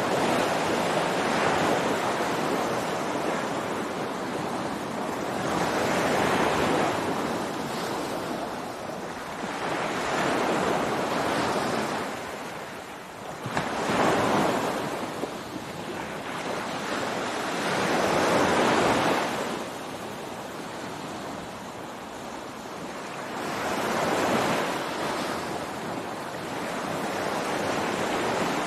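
Ocean waves breaking on a beach: surf swells and washes in every four to five seconds, with one sharper break about halfway through. Some wind noise on the microphone.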